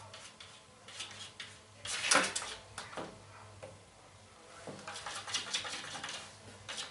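A cat's claws scratching and tapping at window glass in several scrabbling bursts, the loudest about two seconds in and another run of scraping in the second half.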